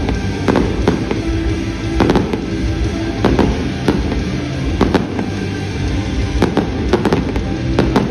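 Aerial fireworks shells bursting in a rapid, irregular series of sharp bangs, with music playing underneath.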